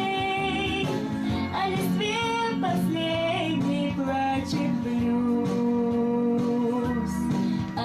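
A woman singing a slow blues song in Russian over instrumental accompaniment, with sliding phrases and a long held note about halfway through.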